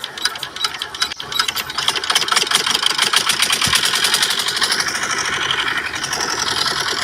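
Small model engine running with a fast, even clatter that speeds up over the first few seconds. A high whine rises over it in the second half.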